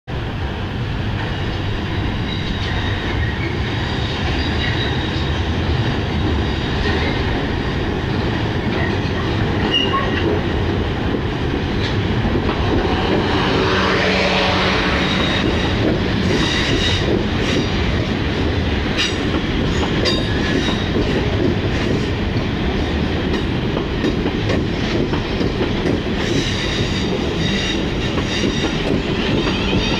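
South West Trains class 444 Desiro electric multiple unit pulling out and passing close by: a steady rumble that swells about halfway through as the carriages draw level, then regular clicks of the wheels over rail joints.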